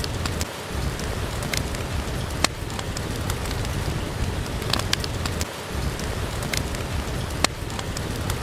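Steady rain hiss over a low rumble, with a sharp pop every second or two, like a wood fire crackling.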